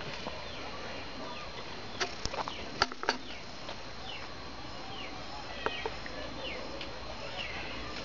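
Small birds chirping over and over, many short falling chirps, against a steady outdoor background, with a few sharp clicks about two to three seconds in.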